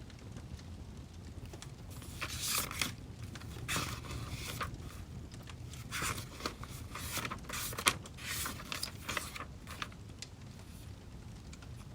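Paper rustling and scraping in several short bursts over about eight seconds, like book pages being handled and turned, over a low steady rumble.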